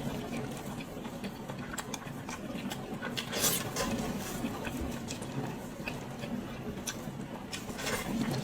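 Close-miked eating sounds of someone chewing braised pig's head: irregular wet smacking and short clicks of mouth and teeth, with the louder smacks about three and a half seconds in and near the end.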